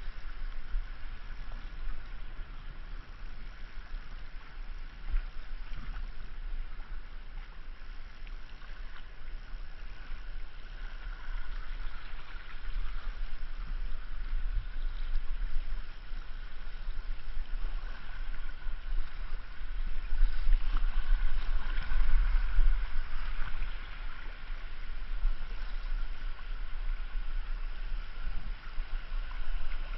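River water rushing and gurgling around a kayak on a moving river, with a steady low rumble underneath. It gets louder for several seconds around the middle, then eases off.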